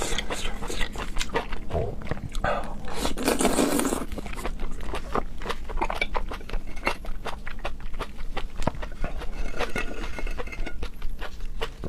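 Close-up wet chewing and lip-smacking of raw seafood, a steady run of quick smacks and clicks, with one longer noisy sound about three seconds in.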